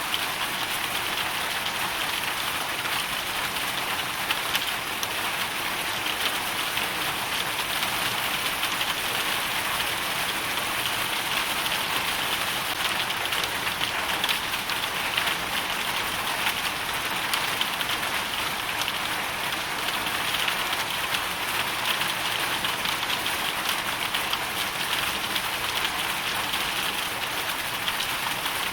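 Hailstorm: a dense, steady downpour of hail and rain striking hard surfaces, countless small ticking impacts merging into an even hiss.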